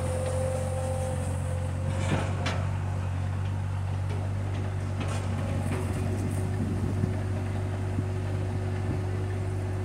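Bobcat skid-steer diesel engine running steadily under work, with a faint steady whine and a few short knocks, about two seconds in and again about seven seconds in.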